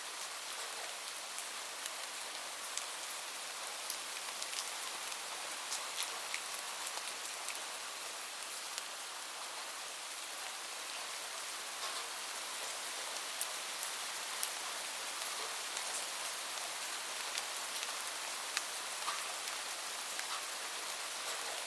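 Steady rain, a constant hiss with many separate drops ticking sharply on a hard surface.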